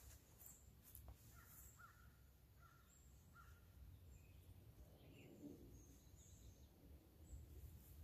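Near silence with faint distant birds: a run of short repeated calls in the first few seconds and scattered high chirps, over a low steady rumble.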